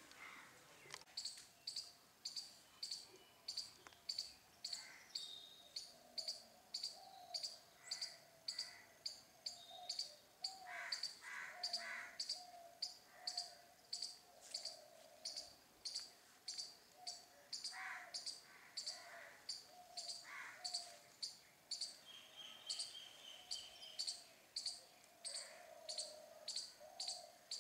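Birds chirping: a high, sharp chirp repeats evenly about twice a second, with other, lower bird calls now and then.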